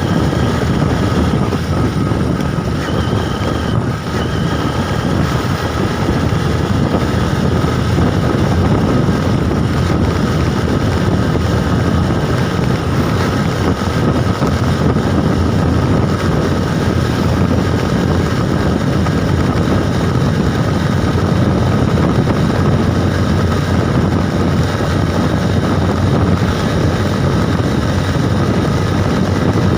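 Steady wind rush on the microphone while riding, over a constant vehicle drone with a faint steady whine.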